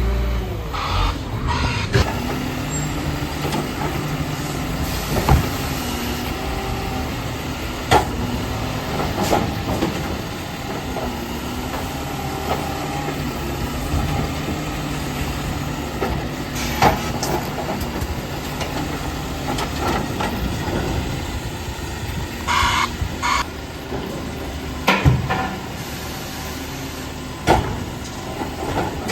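Garbage truck running, with several sharp knocks and clanks spread through, and two short hisses of air near the end, typical of its air brakes.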